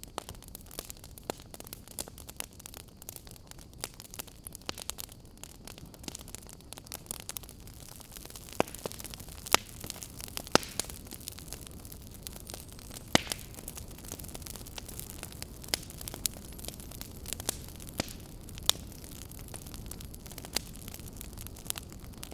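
Burning firewood crackling, with irregular sharp pops over a low steady rumble of the flames.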